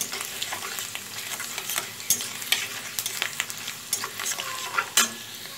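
Chopped garlic and ginger sizzling in hot oil with whole spices in a kadai, the tempering for the dal. A spatula stirs them, scraping and clicking against the pan many times.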